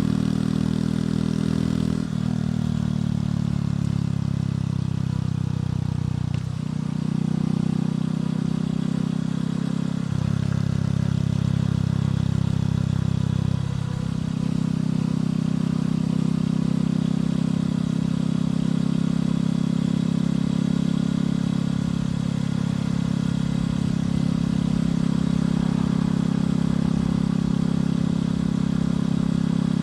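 Motorcycle engine and exhaust running steadily while riding. The engine note breaks and dips briefly about four times in the first half, then holds steady.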